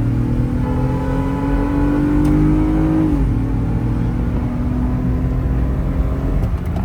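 Toyota Mark X V6 engine pulling under acceleration on a test drive, its note rising, then dropping at a gear change about three seconds in and holding steady after. The misfire has just been cured; the owner says compression is still low but the car performs well.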